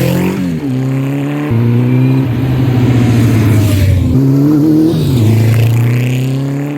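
Honda CB700SC Nighthawk's inline-four engine running hard under way, freshly rebuilt in the top end and still being broken in. Its pitch climbs and drops several times as it pulls and eases off.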